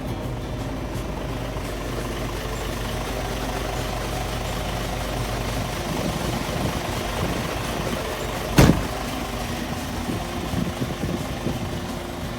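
Isuzu Giga heavy truck's diesel engine idling steadily, with a single sharp knock a little past two-thirds through, the loudest sound.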